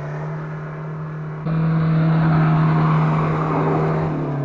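Car engine revving hard and held at high, nearly steady revs under load on a steep off-road climb. It gets suddenly louder about a second and a half in and eases off slightly near the end.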